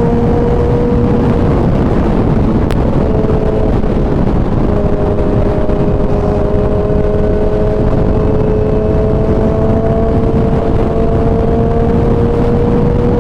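Kawasaki ZX-10R's inline-four engine running at a steady pitch under way, over a heavy rushing noise. The note drops briefly about three seconds in, then slowly climbs.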